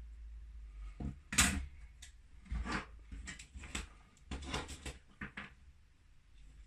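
A series of small sharp clicks and taps from handling a resistor and a kit circuit board while the part is fitted. The loudest tap comes about a second and a half in.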